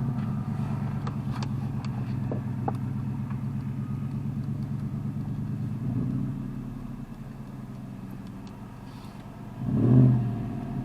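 Car engine running steadily, louder for the first six seconds and then settling lower, with a short rise in the note near the end.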